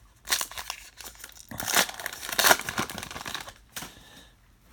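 A baseball card pack's wrapper being torn open and crinkled in the hands, in several irregular crackling bursts.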